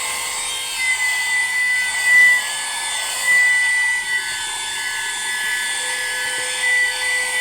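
A 12V, 110 W handheld car vacuum cleaner (AGARO CV1079) running steadily with a high-pitched motor whine and air hiss. The whine briefly surges and shifts in pitch a few times as the nozzle works over surfaces.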